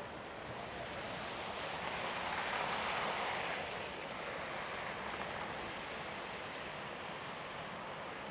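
City street noise with a vehicle passing, its tyre hiss swelling to a peak about two to three seconds in and then fading.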